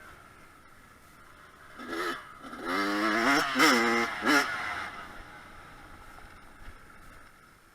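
Dirt bike engine revving: a short blip about two seconds in, then a louder run of revs that rise and fall several times before fading away.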